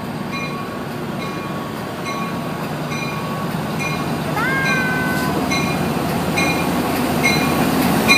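Amtrak F59PHI diesel-hauled passenger train pulling out of the station, its rumble growing slightly, with the locomotive bell ringing steadily at about three strikes every two seconds. A short rising squeal sounds about four seconds in.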